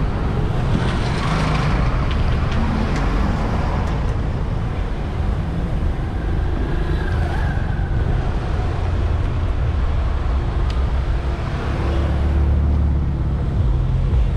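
Road traffic heard from a moving bicycle: car engines running and passing close by, over a heavy, steady low rumble.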